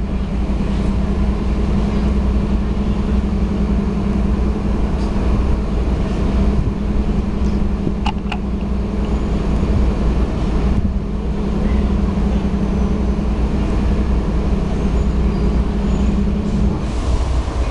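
Diesel train locomotive running steadily, a low rumble with a steady hum that cuts off near the end.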